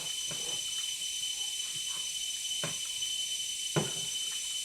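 Eating noises: a few short mouth smacks and clicks, two of them clearer about two and a half and four seconds in, over a steady background hiss with a faint high whine.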